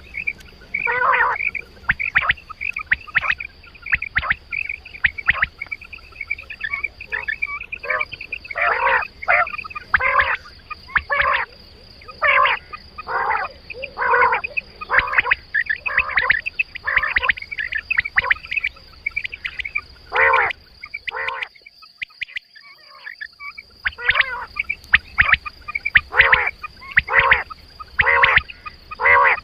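Quail calls from a hunting lure recording: short calls repeated in quick series, pausing for about two seconds roughly three quarters of the way through, over a steady thin high-pitched tone.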